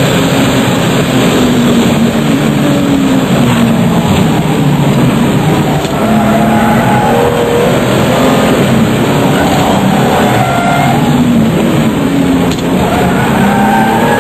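RUF CTR Yellow Bird's twin-turbo flat-six engine running hard at speed, its revs rising and falling repeatedly as it is driven, over a loud rush of wind and road noise.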